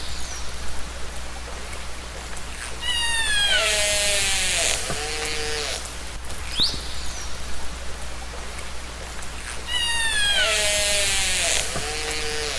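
Killer whale (orca) calls recorded underwater: squealing pulsed calls with several falling pitches, then a short rising whistle. The same sequence comes twice, about seven seconds apart, over a steady hiss and low hum.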